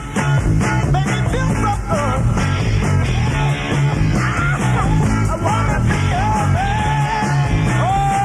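A 1960s British Invasion rock record: a band playing with a steady beat under a lead vocal, which ends on a long held note near the end.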